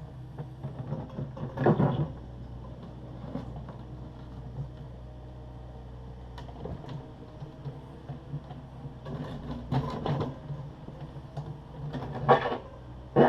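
Takeuchi TB260 excavator's diesel engine running steadily, with loud clanks and scrapes of the bucket working broken concrete about two seconds in and several more near the end.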